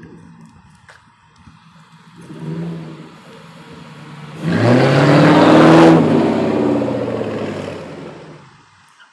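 1995 Ford Thunderbird's 4.6 V8 running through a straight-pipe exhaust with muffler and resonator deleted and an X-pipe from the cat back. It idles, is blipped briefly about two seconds in, then is revved hard about four and a half seconds in and falls back toward idle.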